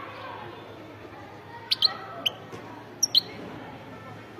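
European goldfinch giving a few short, sharp, high chirps, in pairs about a second apart, after a rapid burst of song.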